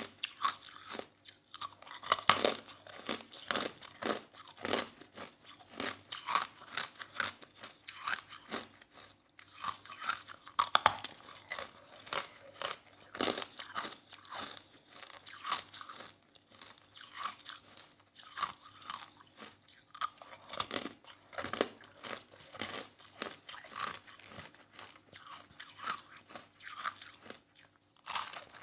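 A person chewing soft crushed ice: irregular crunches, several a second, broken by short pauses.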